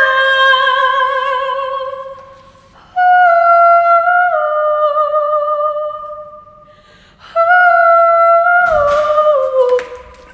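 A woman singing wordless high held 'ah' notes with vibrato, in three long phrases that each step down in pitch, with short pauses between them.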